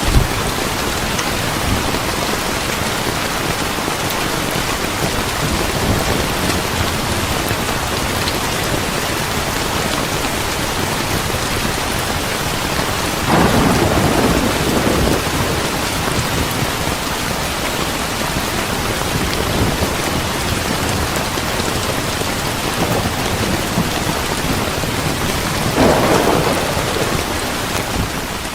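Steady heavy rain with two brief louder swells, one about halfway through and one near the end, fading out at the very end.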